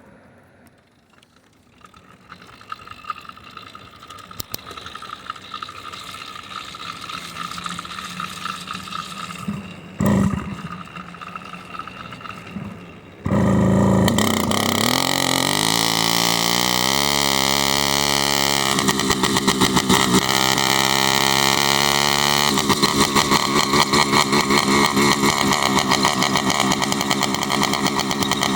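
Motorized bicycle engine: after a quieter stretch with a short loud burst, it catches suddenly, rises in pitch over a few seconds, then runs steadily with a fast pulsing beat.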